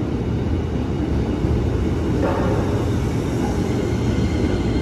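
Electric commuter train moving along the platform: a steady, loud rumble from the train's wheels and cars.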